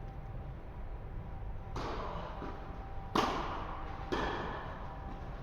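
Tennis ball impacts in a rally on an indoor court: three sharp pops about a second apart, the loudest about three seconds in, each ringing briefly in the hall.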